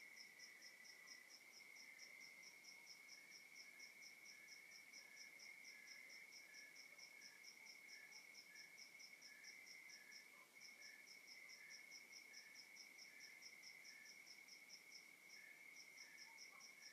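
Faint night chorus of crickets: one steady high trill, another chirping fast and evenly at about four or five chirps a second with two short pauses, and a slower chirp beneath them.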